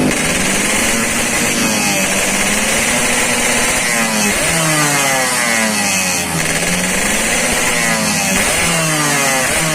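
Motorcycle engine with a hollowed-out, loud exhaust being revved, its pitch climbing and dropping back several times. It is running on a re-jetted carburettor (pilot jet 27.5, main jet 195), with which the owner finds it still does not rev up enough.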